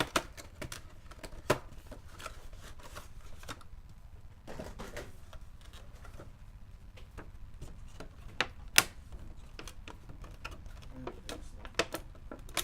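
Cardboard and plastic packaging of a trading-card collection box being handled and pried open: irregular clicks, taps and crackles, with a few sharper snaps, the loudest near nine seconds in.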